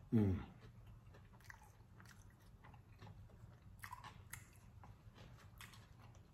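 A person chewing a bite of crispy fried catfish sandwich on white bread, with faint crunches and mouth clicks, a few louder ones about four seconds in. A short falling hum of the voice right at the start.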